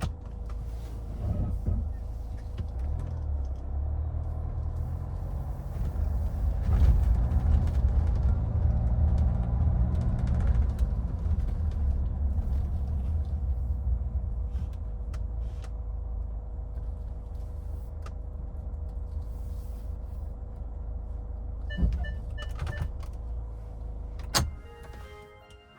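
2014 Hyundai Santa Fe heard from inside the cabin: engine and road rumble, swelling and rising in pitch as the car accelerates a few seconds in, then settling. A few short beeps sound near the end, followed by a click, after which the rumble falls away.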